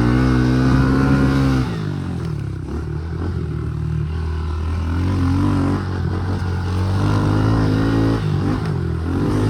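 Honda CRF110 dirt bike's small four-stroke engine running under throttle. It holds steady revs, drops off about two seconds in, then revs up and back down twice more.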